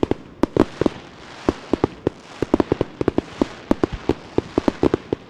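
Fireworks going off in quick succession: many sharp bangs, several a second and irregularly spaced, over a continuous hissing haze.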